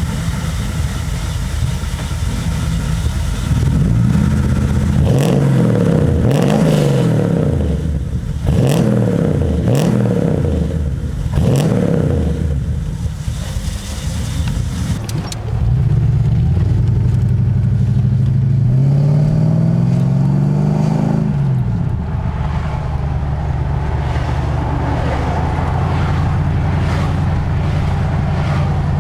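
Mercedes-Benz 450SEL 6.9's 6.9-litre V8, breathing through extractors, an X-pipe and a custom exhaust, revved in about six quick blips, settling to a steady run, then one more rev before running steadily again.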